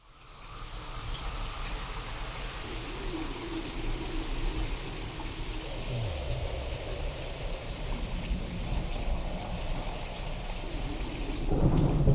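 Thunderstorm: steady rain falling with low rolling thunder, sound-designed to seem alien. It fades in from silence at the start, and a louder, deeper thunder rumble begins near the end.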